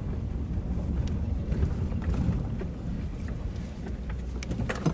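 Steady low rumble of a car driving slowly, with wind noise and a few light clicks near the end.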